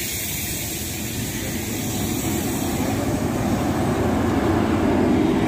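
Express train coaches rolling past on the track in a steady rumble. It grows louder after about two seconds into a low drone as the generator car passes.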